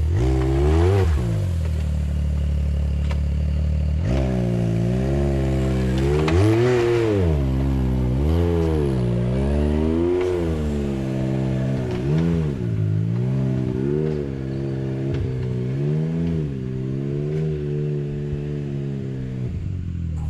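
Side-by-side UTV engine revving in repeated throttle blips, its pitch rising and falling every second or two.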